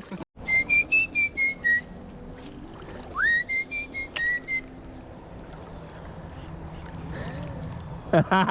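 A person whistling two short phrases of a tune, the second opening with an upward slide.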